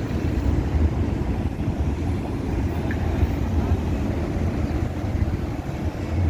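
Busy city street ambience: a steady low rumble of passing traffic, with indistinct voices of passers-by.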